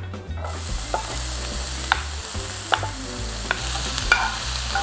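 Chopped vegetables and ham hitting hot oil in a skillet and sizzling, the sizzle starting about half a second in and holding steady. A spatula scrapes the food off a plate, with short ringing knocks about once a second.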